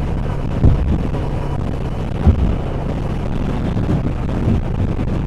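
CFMoto MT650 parallel-twin with a YRS full titanium exhaust running steadily under way, heard through wind rushing over a helmet microphone with the visor open. Two brief low thumps come through, about a second and two seconds in.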